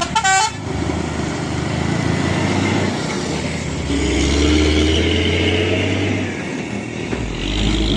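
A truck horn gives a short toot right at the start, then a truck engine runs steadily, its pitch climbing a little about four seconds in.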